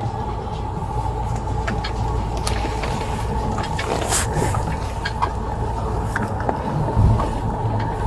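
Steady low background rumble with scattered light clicks and a short thump about seven seconds in.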